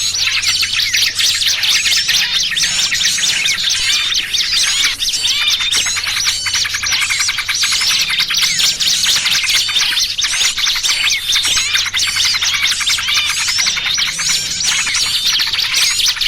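A dense, unbroken chorus of many small birds chirping and twittering over one another. It is a mixed bird-lure recording of noisy small-bird calls, including calls of birds in distress, with a faint steady low hum underneath.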